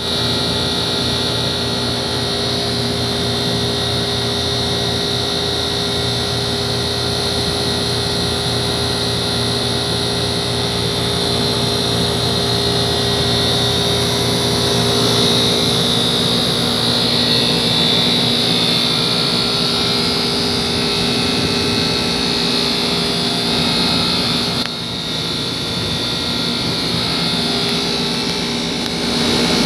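Air-conditioning unit running steadily: a constant compressor hum under the rushing of the condenser fan, dipping briefly about 25 seconds in.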